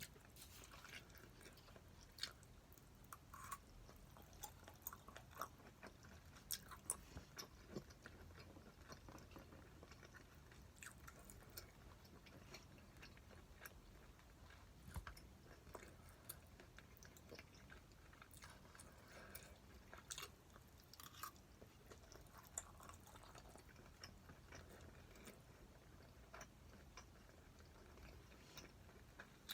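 A person quietly chewing mouthfuls of spicy stir-fried pork, with scattered small clicks and soft crunches.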